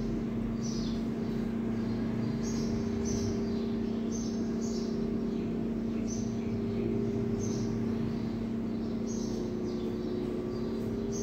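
Short, high chirps of small birds repeating at uneven intervals, over a steady low hum.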